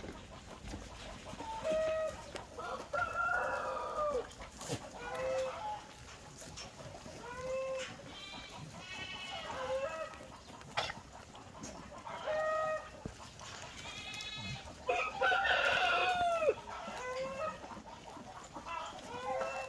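Farm animals calling over and over: short, high-pitched calls every second or two, with one longer, louder call about fifteen seconds in.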